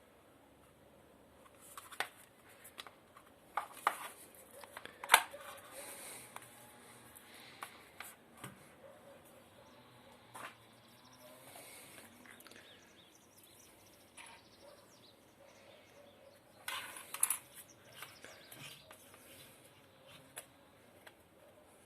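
Irregular clicks and knocks of small blender parts being handled during repair. A few sharper knocks come in the first five seconds, and a short cluster comes near the end.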